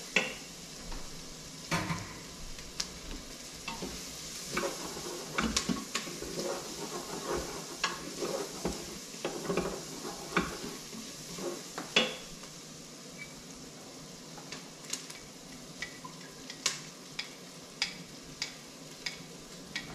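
Chopped onion and minced garlic sizzling in the stainless steel inner pot of an Instant Pot on its sauté setting, while a wooden spoon stirs and scrapes them, knocking against the pot every second or so, with one sharper knock about two-thirds of the way through.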